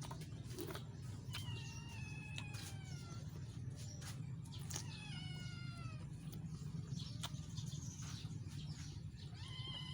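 A cat meowing: three long calls that fall in pitch, about a second and a half in, near the middle and near the end. Scattered sharp clicks and a steady low hum run beneath.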